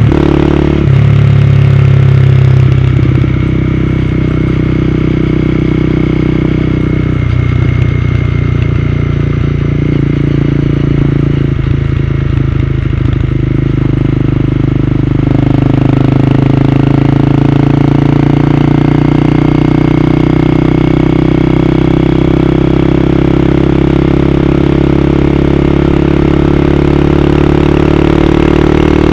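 Honda CB250R's single-cylinder engine running continuously, its pitch stepping up and down several times as the engine speed changes.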